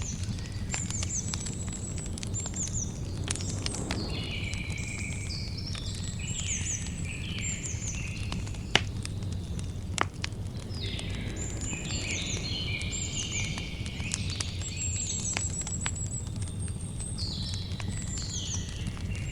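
Campfire crackling, with scattered sharp pops over a low steady rumble; the two loudest pops come about nine and ten seconds in. Songbirds sing repeated phrases of quick descending chirps and trills over the fire.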